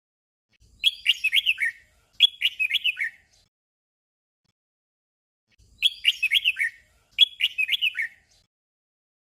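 Red-whiskered bulbul singing its short song phrase twice in quick succession, each phrase a quick run of warbled notes lasting about a second. The same double phrase comes again after a few seconds' pause.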